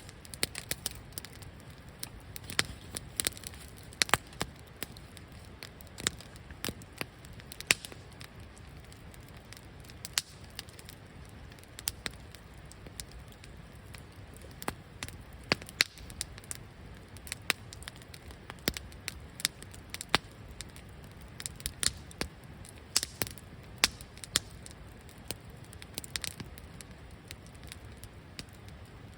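Campfire of wood burning in a fire pit, crackling with irregular sharp pops, several close together at times, over a steady low rumble.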